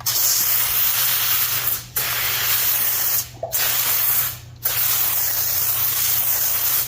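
A fully pumped iK Foam Pro 2 hand-pump foam sprayer hissing as it sprays foam. It gives four sprays with brief breaks between them, the last one the longest.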